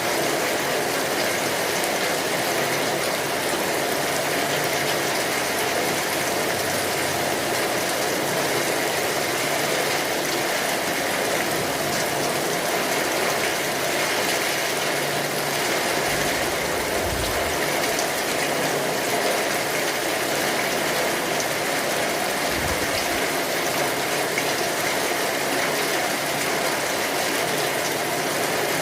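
Steady rain falling, an even hiss of drops with no change in strength, with a brief low rumble twice in the middle.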